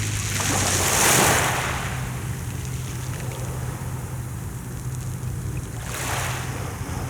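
Mediterranean sea waves washing in: a hissing surge that peaks about a second in and a second, smaller one near the end, over a steady low hum.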